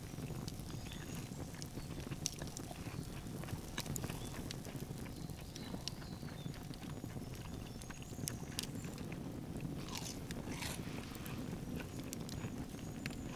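Close-miked biting and chewing of a steak sandwich: crisp crunches and wet mouth sounds, irregular, over a steady low background noise.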